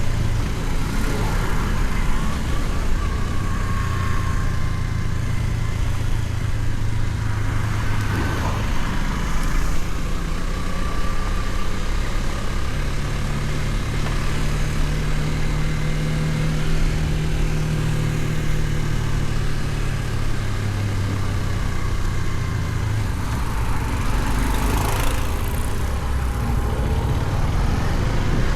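KTM Duke 250 single-cylinder engine running at highway cruising speed, with steady wind and road noise. The engine note rises in pitch about halfway through, then drops back. There are two brief swells of rushing noise, about a third of the way in and near the end.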